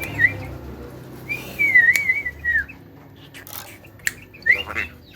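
Whistling: a wavering whistled phrase held around one pitch for over a second, starting about a second in, then a short rising whistle near the end, with a few sharp clicks between.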